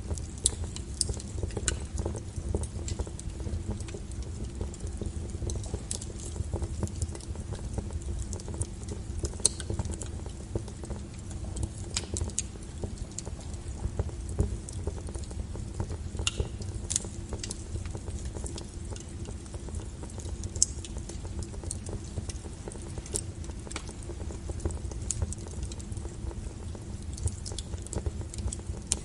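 Wood fire burning in a fireplace: irregular crackles and sharp pops, a few louder than the rest, over a low, steady rumble.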